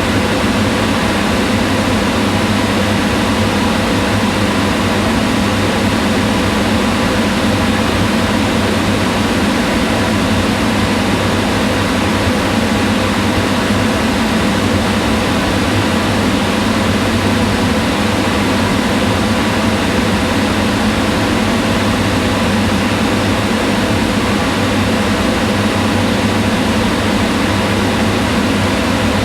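Kitchen range hood's exhaust fan running steadily: an even rush of air with a low hum and a few faint steady tones.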